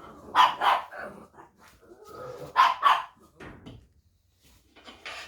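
A dog barking: two quick double barks, the first about half a second in and the second about two seconds later, then a fainter bark near the end.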